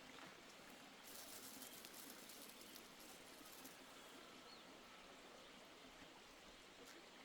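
Near silence: faint background hiss, with light crackling about one to four seconds in.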